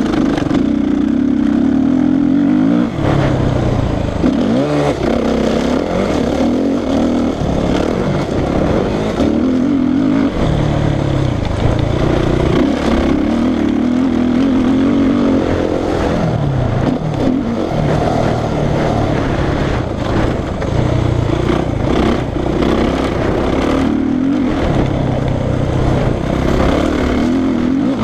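Suzuki RM-Z450 dirt bike's single-cylinder four-stroke engine being ridden hard. The throttle opens and closes over and over, and the engine note climbs and drops as the rider shifts gears.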